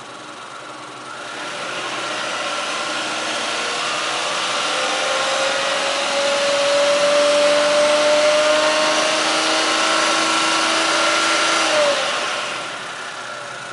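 Honda Life kei car's 660 cc three-cylinder engine revved from idle: the engine note climbs slowly in pitch over several seconds, is held high, then drops quickly back to idle near the end.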